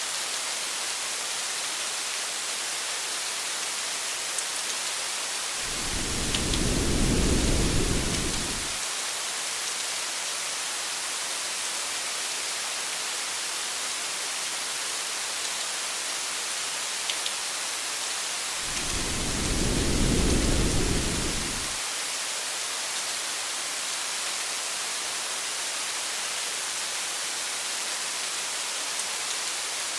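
Steady rain falling in an even hiss, with two low rolls of distant thunder, each about three seconds long, about six seconds in and again about nineteen seconds in.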